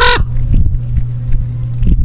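A single harsh caw from a crow-type corvid right at the start, over a steady low hum.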